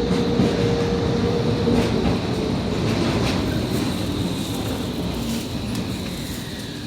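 Ride noise inside a Končar TMK 2200 low-floor tram: wheels and running gear on the rails with a steady whine that fades about three seconds in. The whole sound grows gradually quieter as the tram slows.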